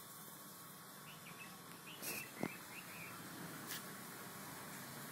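Small birds chirping in short scattered calls over a low steady hiss, with one sharp click about halfway through.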